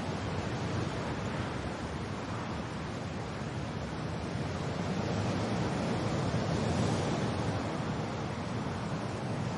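Steady rain and wind, an even rushing wash that swells a little in strength about two-thirds of the way through.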